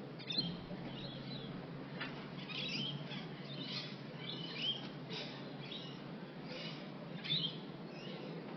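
Wild birds chirping and calling, short calls about once a second, over a steady low background hum.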